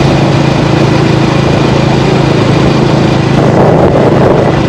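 Small motorbike engine running steadily while riding along, with a rushing haze of wind and road noise over it; it grows a little louder about three and a half seconds in.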